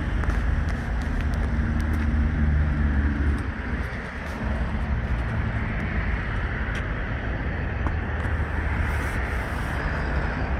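A motor vehicle's engine running with a low rumble that drops off about three and a half seconds in, over steady outdoor noise.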